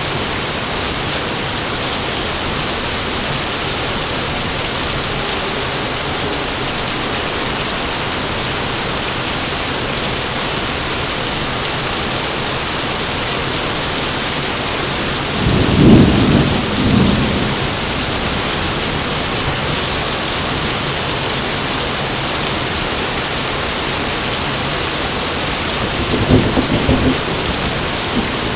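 Heavy rain falling steadily. A loud thunderclap rumbles about halfway through, and a weaker rumble of thunder comes near the end.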